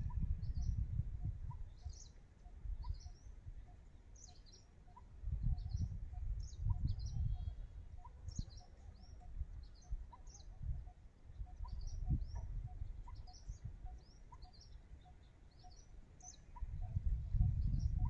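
Small birds chirping: short high chirps, about two a second, going on steadily. A low rumble on the microphone comes and goes underneath.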